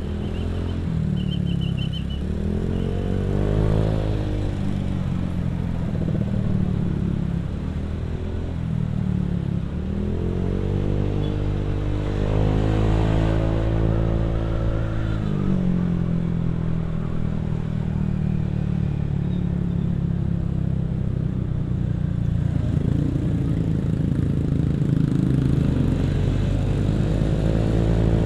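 Motorcycle engine heard through a CMS aftermarket exhaust while riding, running steadily with the engine pitch rising and falling several times as the throttle is opened and closed.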